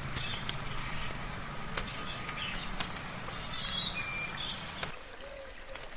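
Birds chirping and whistling over a steady hiss of soft rain, with scattered sharp drips ticking now and then. A low background rumble cuts out about five seconds in.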